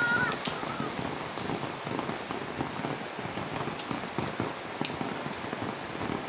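Steady rain falling and pattering on surfaces, with scattered sharp drop ticks. A brief high-pitched call fades out right at the start.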